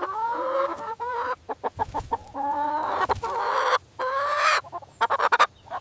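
Chicken clucking and calling: several drawn-out calls with short clucks in between.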